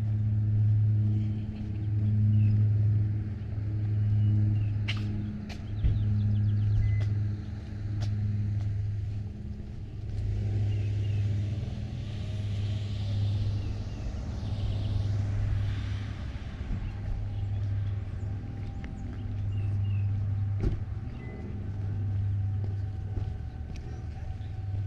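A low mechanical hum, like an engine or motor, that swells and fades in a steady rhythm about once every second and a half.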